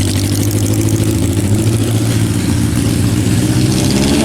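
Car engine running at low speed, a steady low hum whose pitch rises a little near the end.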